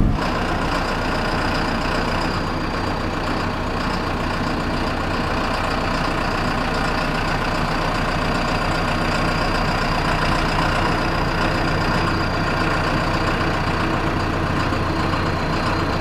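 John Deere tractor engine running steadily, with a thin high whine held over it.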